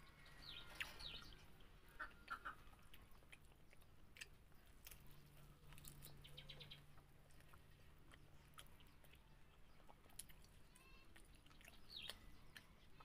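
Faint close-up chewing and small wet mouth clicks of someone eating a fried egg by hand, with a few faint bird chirps in the background near the start, about two seconds in, and near the end.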